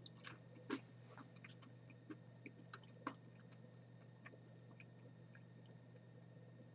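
Faint clicks of chewing a boiled, salt-dried Chinese yellow scorpion (Mesobuthus martensii), thickest in the first three seconds, then sparse.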